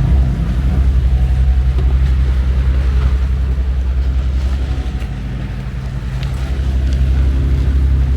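Sailboat engine running steadily with a low, even throb, dipping a little about five seconds in before picking up again.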